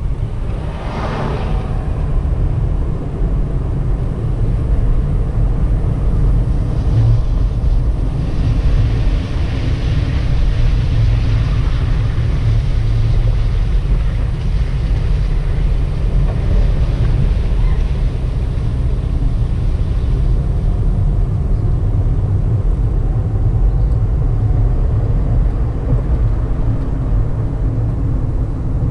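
Car driving along a road: a steady low engine and road rumble, with a hiss of tyre and air noise swelling for several seconds in the first half.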